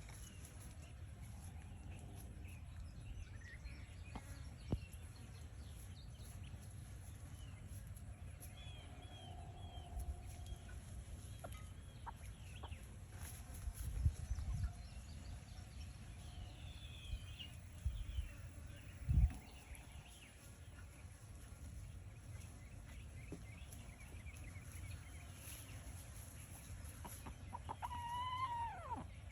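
Chickens clucking and calling softly, with a longer, louder call from a hen or rooster near the end. A few low thumps, the loudest sounds, come about halfway through.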